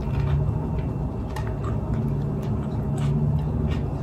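A person biting into and chewing a burger close to the microphone: scattered short wet mouth clicks and smacks over a low steady hum.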